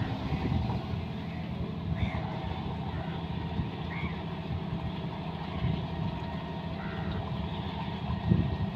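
John Deere 5210 tractor's diesel engine running steadily, with faint short high beeps recurring about once a second over it.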